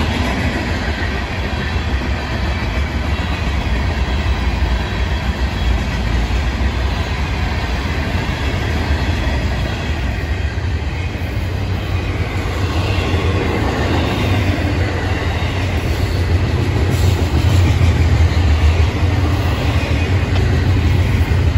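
Florida East Coast Railway freight train cars rolling past: a steady rumble of steel wheels on the rails with clatter, as hopper and gondola cars give way to double-stack intermodal well cars. It grows a little louder in the second half.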